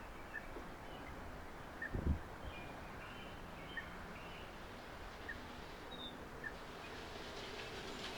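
Faint, short bird chirps repeating every second or two over steady outdoor background noise, with a brief low thump about two seconds in.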